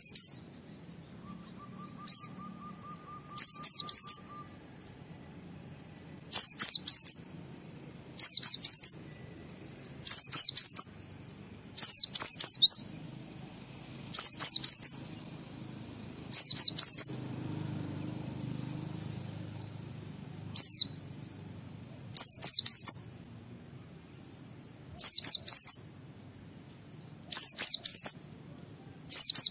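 A white-eye (pleci) singing short, high, rapid twittering phrases, one burst about every two seconds, some in quick pairs, with a brief pause about two thirds of the way through.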